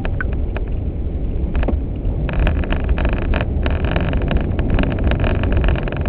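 Car in motion heard from inside the cabin: a steady low rumble of engine and tyres on a snowy road. From about two seconds in, a dense, irregular crackle of short clicks joins it.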